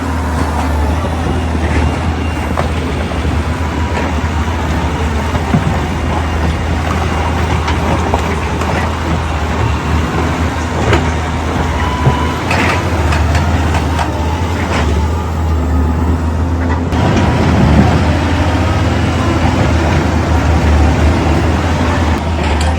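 Heavy diesel machinery running steadily with a deep engine hum, mixed with scattered knocks and clanks.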